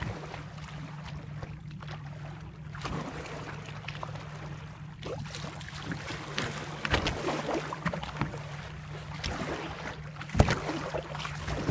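Motorboat sitting on the water with its engine idling in a steady low hum, water sloshing against the hull. There are two short louder hits, one about seven seconds in and one near ten seconds.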